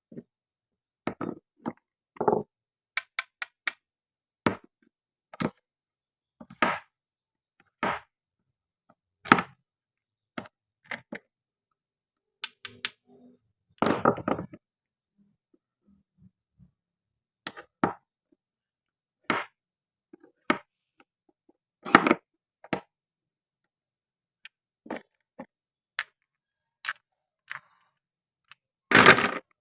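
Toy fruit and vegetables of wood and plastic being cut and handled with a toy knife on a cutting board: sharp clacks and taps at uneven intervals, with a few longer, rougher rasps, one a little before halfway and the loudest at the very end.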